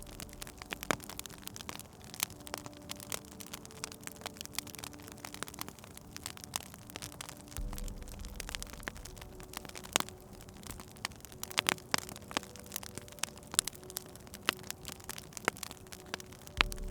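Wood fire crackling in a fireplace: irregular sharp pops and snaps, a few louder than the rest, over a faint low hum.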